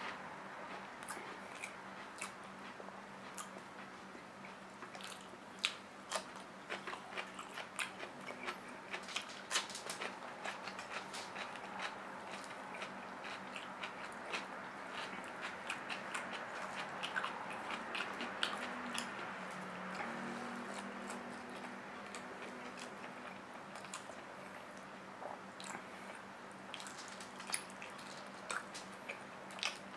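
Close-up eating sounds: chewing, lip smacks and small wet clicks as braised pork hock (humba), rice and banana blossom are eaten by hand. A faint steady hum runs underneath.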